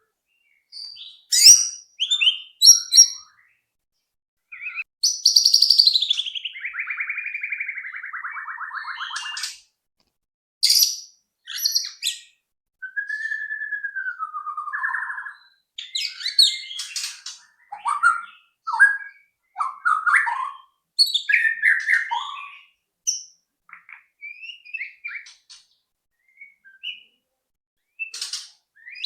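White-rumped shama singing: a varied run of short whistled and chattering phrases, with a long buzzy phrase sliding down in pitch about five seconds in and a clear slurred whistle rising then falling around the middle.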